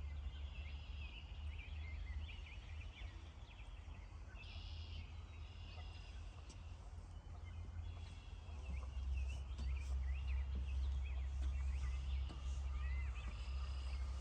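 Many short bird chirps and twitters, over a steady low rumble that grows stronger about two-thirds of the way through.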